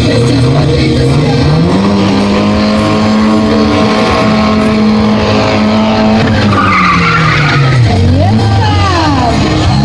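A stunt car's engine revving up and held at high revs with tyres skidding and squealing, then dropping back to a lower note about eight seconds in.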